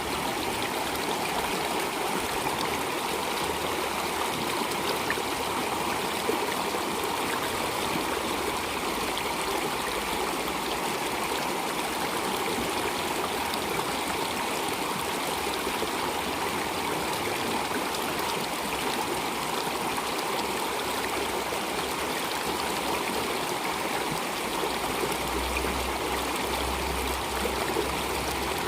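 Flowing water running steadily, an even rushing with trickling. A low rumble joins in near the end.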